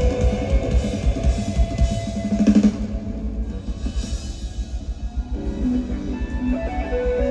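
Live rock band playing an instrumental passage: a steady drum-kit beat under held guitar and bass tones, the fuller band sound thinning out about two and a half seconds in while the drums keep going.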